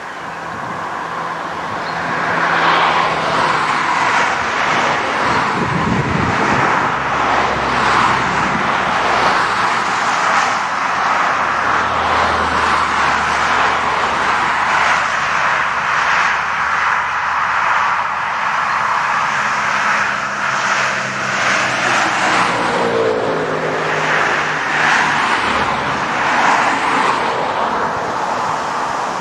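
Train running close by: a loud, steady rush of mechanical noise with a faint regular beat, building over the first three seconds. A short wavering whine comes about two-thirds of the way through.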